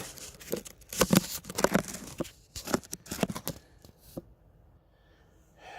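Handling noise as the recording camera is picked up and set in place: irregular knocks, scrapes and rustles against the microphone for about four seconds, then it goes quiet.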